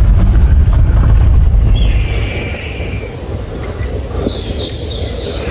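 A four-wheel-drive vehicle's engine and ride noise rumble, easing off about two seconds in as it slows. A steady high insect drone runs underneath, with a bird call and higher chirps toward the end.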